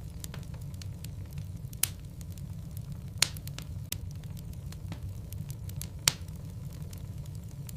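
Burning logs in a fireplace crackling over a steady low rumble, with three sharp pops about two, three and six seconds in.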